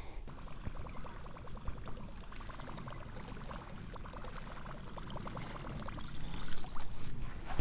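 Water trickling and splashing softly, with many small ticks, getting louder near the end.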